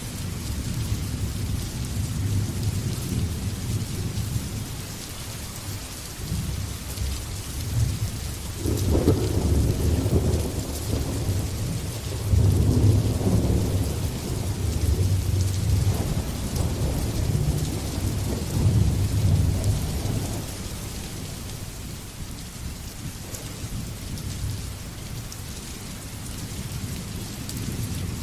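Steady heavy rain hissing, with a long rolling rumble of thunder that builds about a third of the way in, peaks twice and dies away after about twenty seconds.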